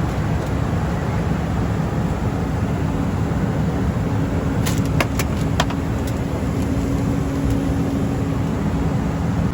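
Private jet cabin noise in flight: a steady rumble of engines and rushing air with a constant low hum, and a few faint clicks about five seconds in.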